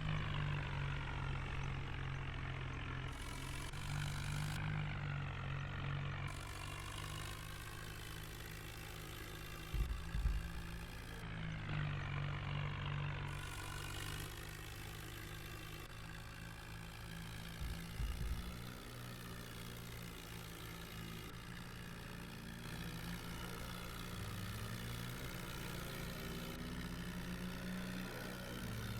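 New Holland tractor's diesel engine running steadily while pulling a fully loaded trolley. A couple of short knocks come about ten and eighteen seconds in.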